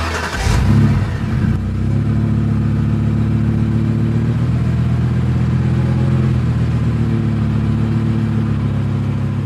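Steady low engine-like hum, after a brief noisy swell at the start.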